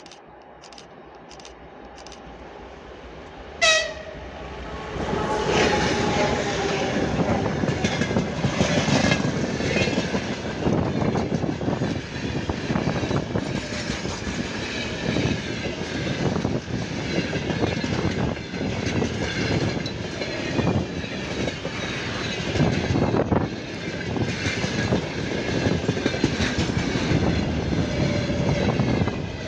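A freight train hauled by a 2TE116UD twin-section diesel locomotive approaches and passes. There is a brief loud burst about three and a half seconds in. From about five seconds on there is a loud, sustained rumble of the locomotive and wagons, with repeated knocks of wheels over rail joints.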